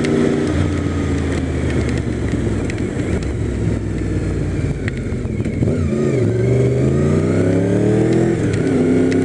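Motorcycle engine running while ridden, over a steady hiss of road and rain noise. About six seconds in it accelerates with a rising pitch, drops briefly near the end as it shifts up, then pulls on steadily.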